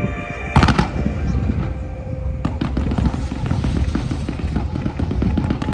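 Fireworks going off: a loud bang about half a second in, then a dense run of booms and crackles. Music with held notes plays under the first half and stops about two and a half seconds in.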